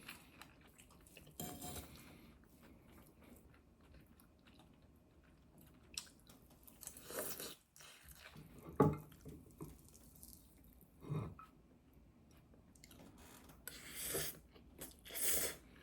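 A person eating: soft chewing and bites, with a few light knocks of dishes or utensils, as separate short sounds with quiet between them.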